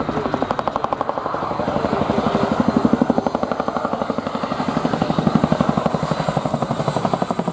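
RAF Boeing Chinook HC.2/4 tandem-rotor helicopter flying close by, its twin rotors beating in a rapid, steady thudding that swells and eases in loudness.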